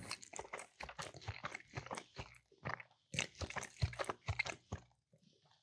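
Close-miked chewing of a mouthful of meatball: irregular wet mouth clicks and soft crunches, stopping shortly before the end.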